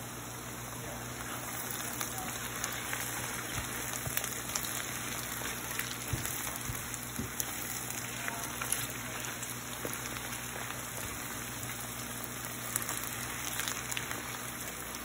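Shredded chicken and diced onions sizzling in olive oil in a frying pan, a steady crackle, with light knocks of a spatula as they are stirred.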